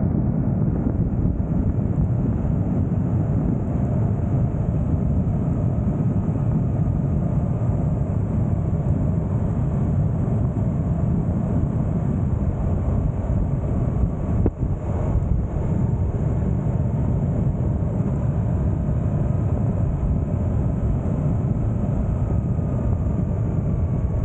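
Suzuki GSX-8S parallel-twin engine running at road speed under wind noise. The engine eases off as the motorcycle slows from about 100 km/h.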